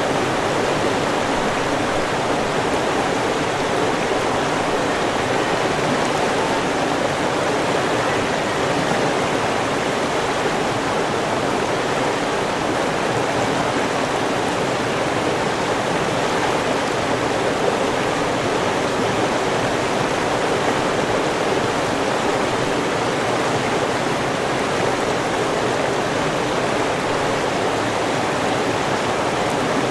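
River water rushing and splashing over rocks, a steady, unbroken flow.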